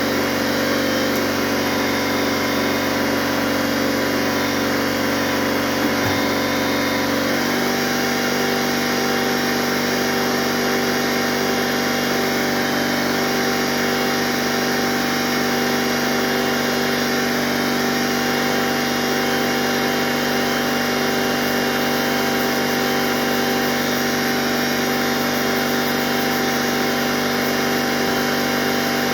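Shop air compressor running steadily, its hum shifting to a different set of tones about seven seconds in.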